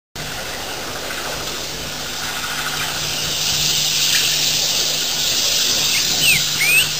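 Open-air ambience through a webcam microphone: a steady hiss with a low electrical hum under it. A few short, sweeping bird chirps come in near the end.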